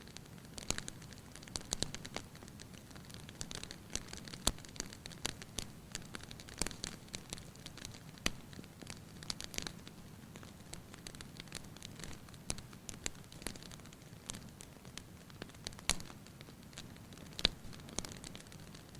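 Wood fire burning in a fireplace, crackling and popping irregularly over a low steady hiss, with a few louder pops.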